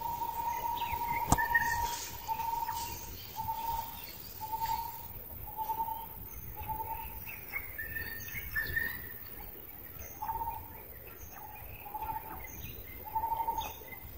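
Birds calling: a short note repeated roughly once a second, with higher chirps and brief high notes between. A single sharp click sounds about a second in.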